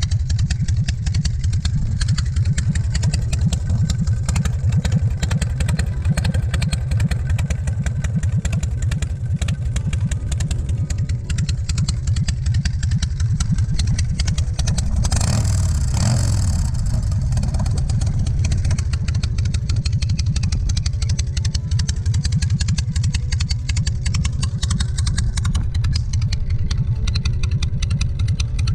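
S&S 113 cubic-inch V-twin of a Bourget Low Blow chopper idling with a steady pulsing rumble, briefly revved about halfway through.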